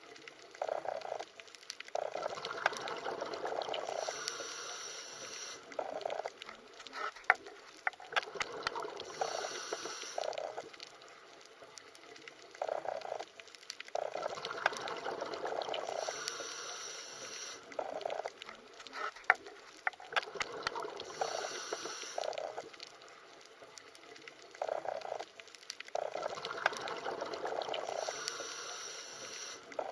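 Underwater ambience: bubbling, gurgling water that swells in surges every few seconds, with scattered sharp clicks.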